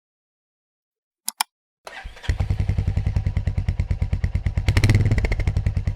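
Two short clicks, then a Royal Enfield Meteor 350's single-cylinder 349 cc engine is started on the electric starter, catches and settles into an even thumping idle. About five seconds in it is given a brief blip of throttle and gets louder.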